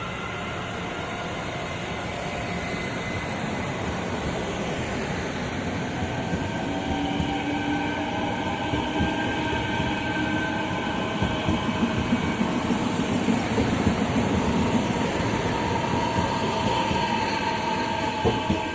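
A train passing on the line, growing louder to a peak about two-thirds of the way in, with rapid wheel clatter over the rail joints and steady whining tones, then starting to fade near the end.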